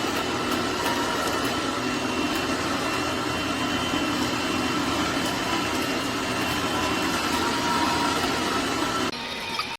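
Electric juicer motor running steadily with a constant hum, cutting off sharply near the end.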